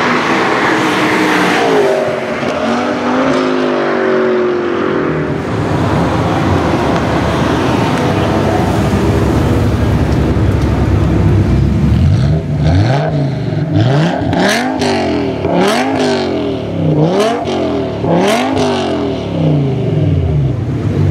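A car passes at speed in the first few seconds, its engine note falling as it goes by. Then a BMW E60 M5's 5.0-litre V10 with Eisenmann exhaust idles, and in the second half it is revved about five times in quick succession, each rev climbing and dropping sharply.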